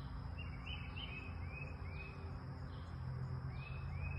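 A bird chirping: a quick run of short, arching chirps, a pause, then a few more near the end, over a steady low background hum.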